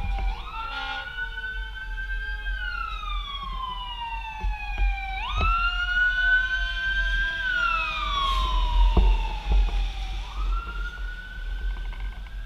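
Emergency vehicle siren wailing: the pitch sweeps up quickly, holds, then glides slowly down, three times over, with a low rumble underneath.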